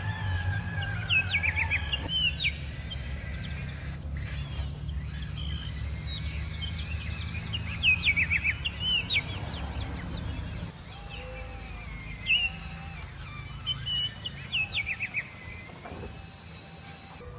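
Songbirds chirping outdoors, in repeated short phrases of quick falling notes, over a low steady rumble that drops away about ten seconds in.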